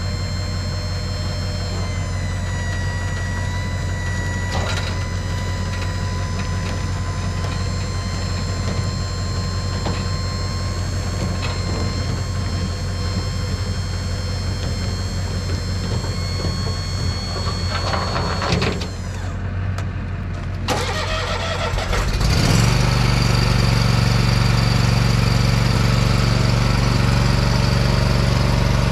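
An engine running steadily with a thin whine, which cuts out about two-thirds of the way through. A couple of seconds later a louder engine starts and settles into steady running to the end.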